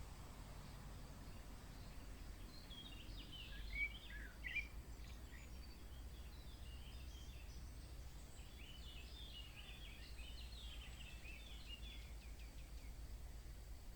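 Birds chirping faintly in two bursts of short, quick calls, with a couple of louder chirps about four seconds in, over a steady low background rumble.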